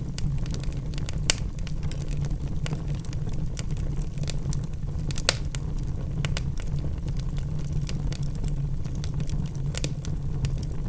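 Wood fire burning in a fireplace: logs crackling with frequent sharp pops over a steady low rumble, two louder pops about a second in and about five seconds in.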